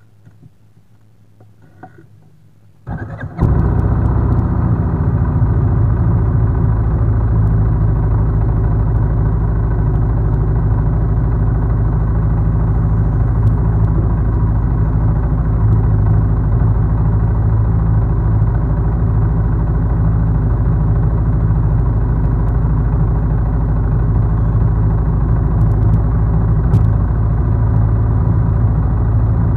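Land Rover Discovery II's engine starting about three seconds in, then running steadily and loud close by.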